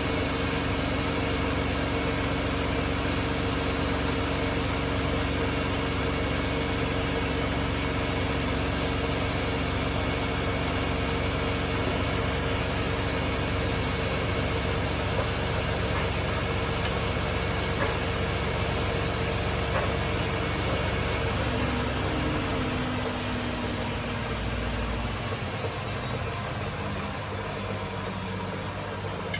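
Hotpoint Aquarius washing machines on a high-speed final spin, a steady motor whine and drum hum. About three quarters of the way through the pitch starts to fall as a spin winds down at the end of the cycle.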